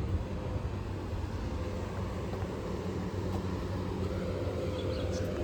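A motor running steadily, giving a constant low hum with a faint held tone above it, over general street background noise.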